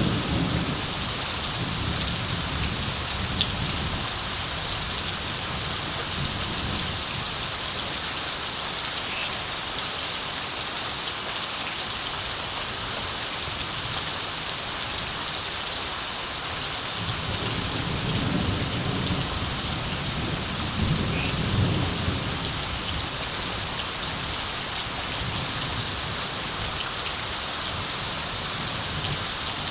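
Steady rain falling, a constant hiss, with low rumbles of distant thunder at the start and again for several seconds past the middle.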